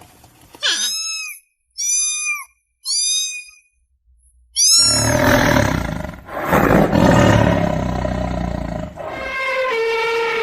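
Animal calls: four short high squeals, each falling in pitch, then a long loud raspy roar-like call and a lower drawn-out moan near the end.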